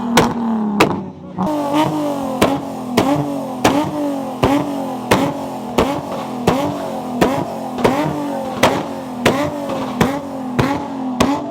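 Car engine held at high revs and bouncing off its rev limiter, cutting out and jumping back about twice a second. The pitch sags between cuts, as on a car doing a burnout.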